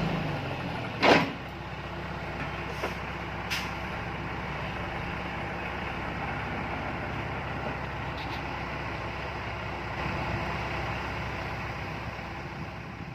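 Heavy diesel engine running steadily, with a loud short burst about a second in and a few fainter clicks after it.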